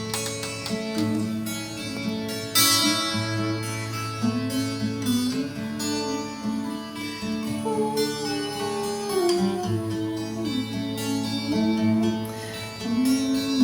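Acoustic guitar music, plucked and strummed, with a melody line moving over a steady bass.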